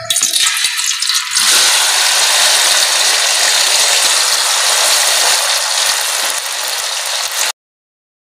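Pieces of arvi (taro root) frying in hot ghee: a loud, steady sizzle that swells about a second and a half in, then cuts off suddenly near the end.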